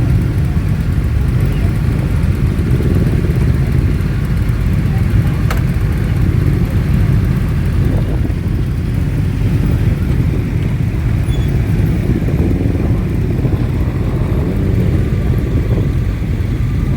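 Many motorcycle engines running together in a steady, dense low-pitched drone, with a single sharp click about five seconds in.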